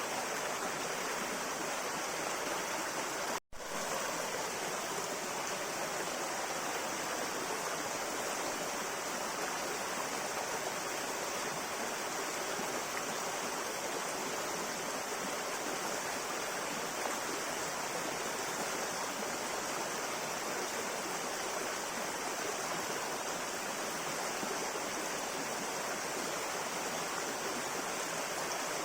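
Flowing river water: a steady, even rushing, cut off for an instant about three and a half seconds in.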